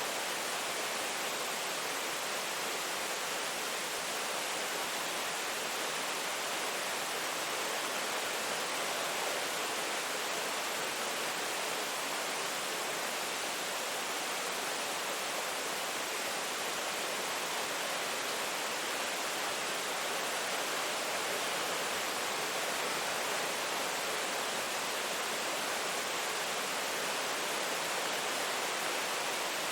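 Steady rain falling, a dense even hiss with no separate drops or thunder standing out.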